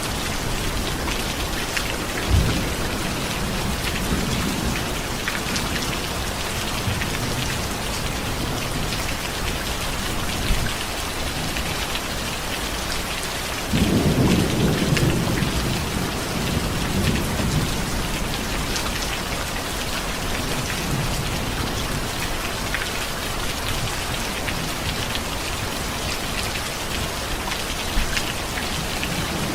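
Steady heavy rain falling, with a roll of thunder that breaks in suddenly about halfway through and rumbles off over several seconds, and a couple of sharper cracks.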